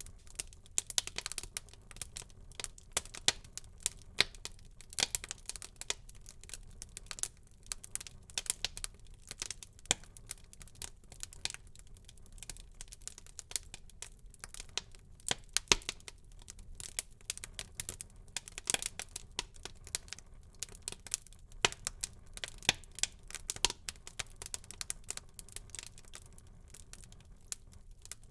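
Wood fire burning in a fireplace, crackling with dense, irregular pops and snaps over a low, steady rumble of flame.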